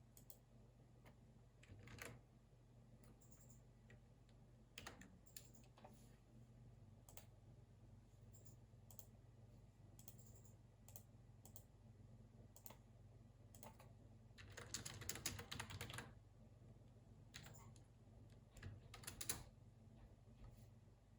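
Computer keyboard being typed on, quietly, in scattered single keystrokes and short runs, the busiest run about two-thirds of the way through and a shorter one near the end. A faint steady low hum lies underneath.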